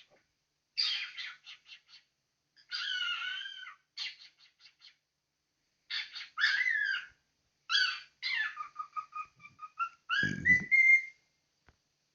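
Cockatiel chattering and whistling in short bursts of rapid, stuttering calls, then a run of quick repeated whistle notes that ends on a rising whistle near the end. A brief low thump sounds about ten seconds in.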